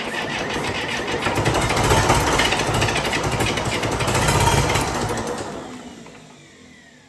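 1961 Case 830 tractor's diesel engine running rough and loud just after being started on starting fluid with a freshly installed rebuilt injection pump; the sound swells twice, then dies away over the last two seconds.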